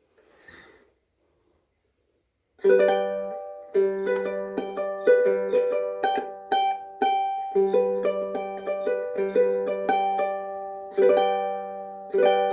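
Soprano ukulele strung with Aquila Reds strings, played as a picked chord melody starting about two and a half seconds in, its notes ringing on with long sustain.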